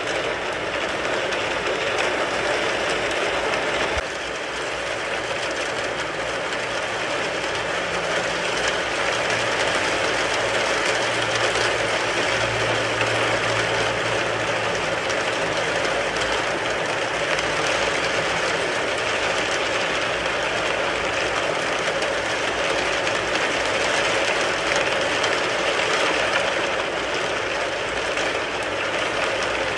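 Steady, heavy rain pattering on a car's roof and body, heard from inside the car.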